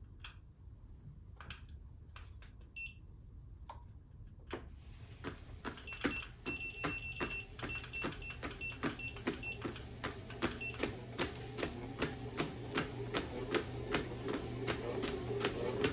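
Knitting needles clicking against each other as stitches are worked by hand: a few scattered clicks at first, then from about five seconds in a steady rhythm of about three clicks a second that grows louder. A faint high electronic beeping repeats for a few seconds in the middle, over a low steady hum.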